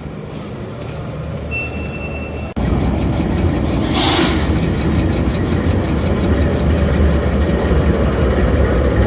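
A train running on the rails, a steady loud rumble. It comes in abruptly, much louder, a little over two seconds in, with a brief hiss about four seconds in.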